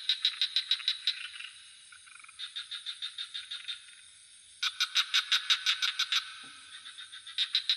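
Frogs calling in rapid pulsed trains, about seven pulses a second, each run lasting a second or so with short gaps between, over a steady high insect drone.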